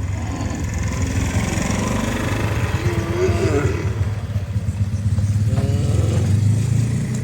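An engine running steadily, a low rumble that grows a little louder toward the middle.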